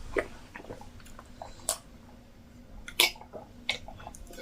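Chewing and wet mouth sounds of people eating yam fufu with vegetable soup: scattered soft smacks and clicks, the sharpest about three seconds in.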